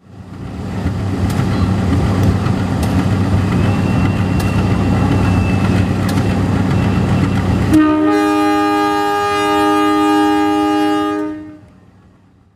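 Passenger train rumbling past over the rails, with a few sharp wheel clicks over rail joints. About eight seconds in, the locomotive's horn sounds a loud chord for about three and a half seconds, with a short dip partway, then cuts off and the sound fades.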